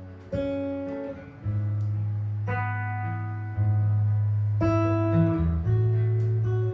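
Improvised jazz guitar: a chord is plucked about every two seconds, three times, and left to ring over a sustained low bass note.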